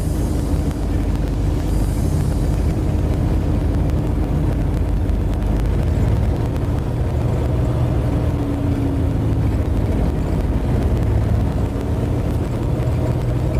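1989 Suzuki Katana engine and road noise inside the cabin while driving: a steady low rumble, with the engine note shifting slightly up and down.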